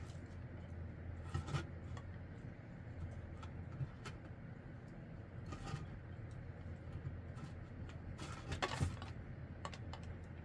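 Scattered light knocks and clinks of hard objects, with a denser, louder cluster about eight seconds in, over a steady low hum.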